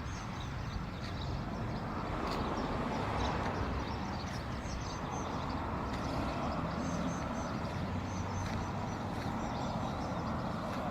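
Road traffic running steadily, one vehicle passing and fading about two to four seconds in, with small birds chirping.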